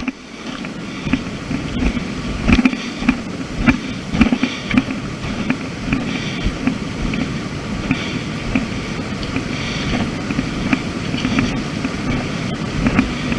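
A hiker's heavy breathing and wind rushing over the camera microphone while climbing, with irregular knocks and rustles from the camera being carried.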